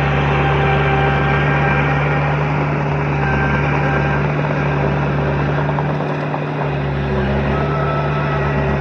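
Diesel engine of heavy earthmoving machinery running steadily at a constant pitch, a deep, even hum.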